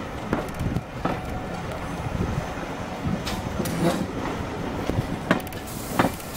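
Train running along the line, heard from on board: a steady rumble of wheels on rail, with several sharp, irregular knocks and clacks of the wheels over the track.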